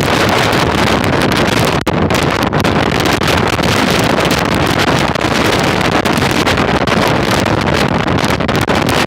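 Strong storm wind blasting across the microphone: a loud, continuous rush of noise.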